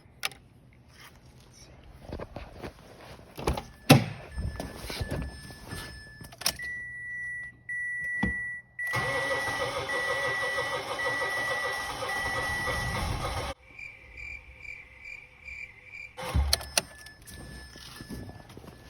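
2017 Mitsubishi Mirage's three-cylinder engine cranking on the starter for about four and a half seconds with the fuel pump fuse pulled, to clear a flooded engine; it does not catch, and the cranking stops suddenly. Electronic dashboard chimes sound before and after, with clicks and knocks at the start.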